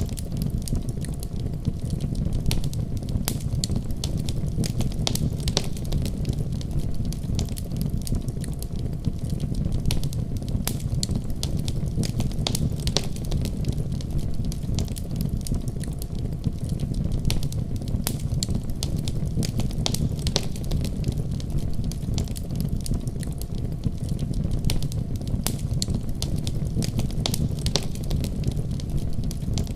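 Wood fire crackling in a fireplace: many small sharp pops and snaps, irregular and continuous, over a steady low rumble.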